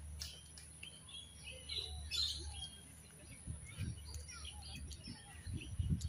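Garden birds chirping and calling: many short, scattered chirps and little whistled notes, with some low rumbling in the second half.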